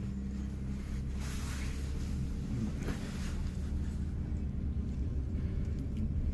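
Train running, heard from inside the passenger car: a steady low rumble, with a brief rushing swell about a second in and the sound slowly growing louder toward the end.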